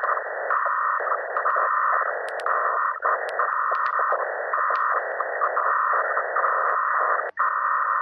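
Saturn's radio emissions recorded by the Cassini spacecraft and converted to sound: a radio-static hiss that swells and drops in uneven pulses every half second or so, with scattered sharp clicks.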